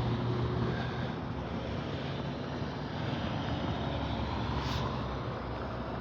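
Steady low rumble of vehicle engines running. A low hum in it fades about a second in.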